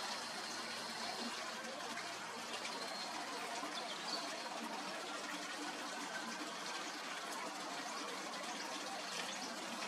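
A steady background hiss with a few faint, brief, high bird chirps scattered through it.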